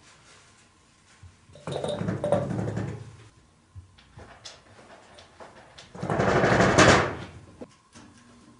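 Wooden shoji sliding door rattling and shifting in its frame as a cat paws and pulls at its edge, in two bursts of a second or so each, the second one louder.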